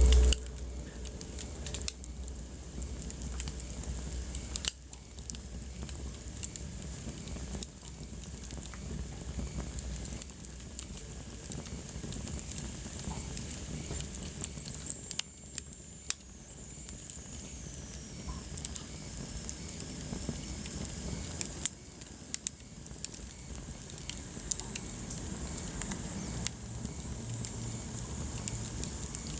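Wood fire crackling in a fireplace: frequent small pops and snaps over a steady hiss, with a brief low rumble right at the start.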